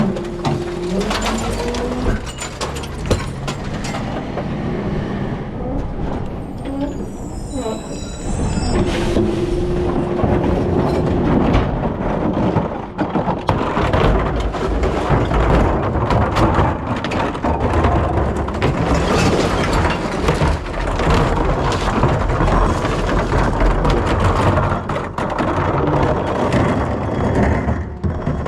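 Rear-loader garbage truck working: a steady low engine rumble with frequent clanks and rattles of metal parts.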